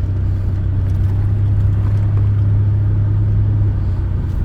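A car running while it drives along: a steady low drone of engine and road noise.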